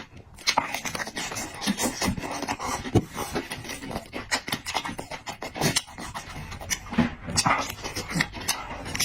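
A person chewing food close to the microphone: a dense, irregular run of short crunching clicks and wet mouth sounds.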